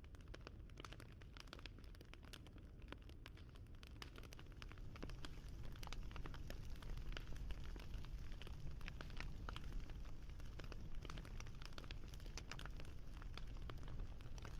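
Wood fire crackling: many small irregular snaps and pops over a low rumble of burning, a little louder from about five seconds in.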